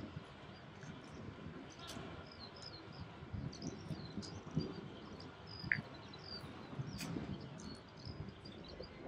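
Small birds chirping: many short, high calls scattered throughout, over a low, uneven outdoor background noise.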